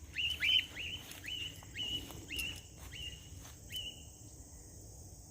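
Cockatiel giving a run of short, repeated chirping calls, about two a second, growing fainter and stopping about four seconds in. Insects trill steadily behind.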